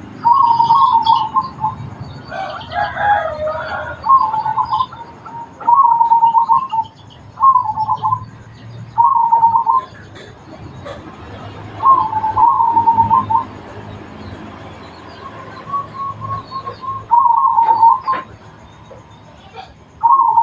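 Zebra dove (perkutut) cooing: about eight short phrases of quick stuttering coos repeated every couple of seconds. A rooster crows once about two to four seconds in, and small birds chirp faintly in the background.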